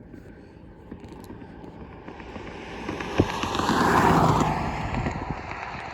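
Lufthansa Airbus A380's four Rolls-Royce Trent 900 jet engines passing close by on a landing approach: a rising rush of jet noise that peaks about four seconds in and then begins to fade.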